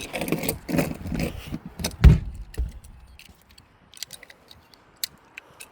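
Toy monster trucks clattering and clicking as they are handled and set in place on the track, with a heavier thump about two seconds in, then a few faint clicks.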